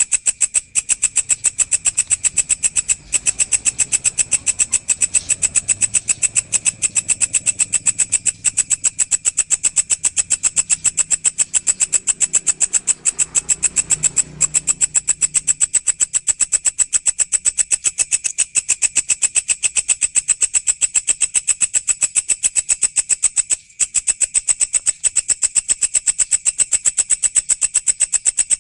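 Walang, a katydid-type insect, chirring steadily: a loud, high-pitched, rapidly pulsing buzz that breaks off briefly twice.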